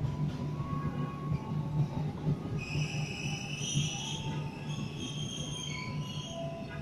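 Argo Parahyangan passenger coaches rolling past along the platform with a steady low rumble. From about three seconds in, the wheels squeal on the rails in several high, drawn-out tones that come and go.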